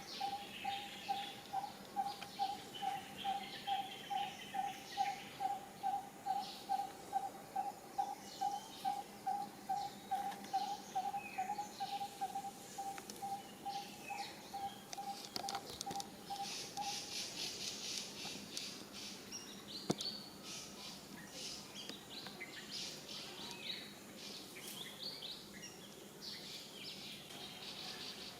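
Outdoor forest ambience: birds chirping and tweeting, over a repeated call of short same-pitched notes, about two or three a second, that stops about two-thirds of the way through. A brief high insect-like buzz comes just as the repeated call ends.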